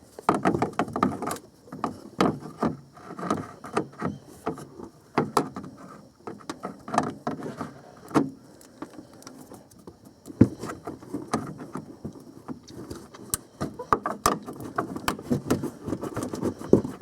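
Irregular clicks, taps and knocks of hand tools working a spring hose clamp and pulling a lower radiator hose free.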